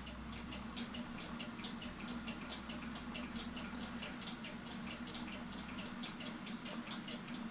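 Cuckoo clock movement ticking rapidly and evenly, about four to five ticks a second, over a steady low electrical hum.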